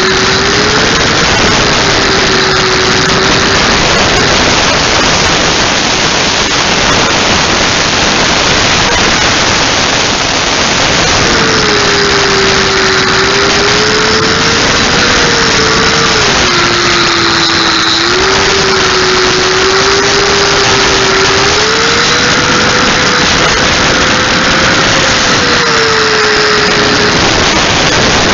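Handheld grinder running under load, a loud harsh grinding noise with the motor's whine rising and dipping in pitch as it is pressed into the work.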